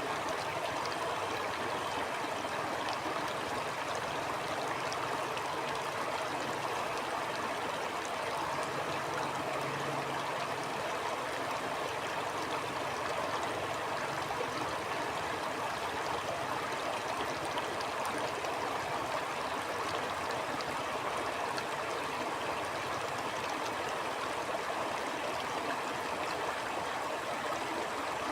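Stream water flowing steadily over rocks, a constant rushing with small splashes and trickles.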